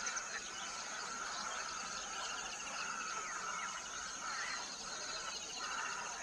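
Birds chirping and trilling, short repeated note series, over a steady high-pitched drone.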